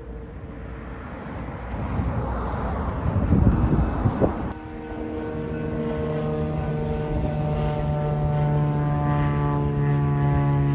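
Diesel locomotive at a station: a rumble swells to a peak about three to four seconds in, then gives way abruptly to a steady, low-pitched engine drone.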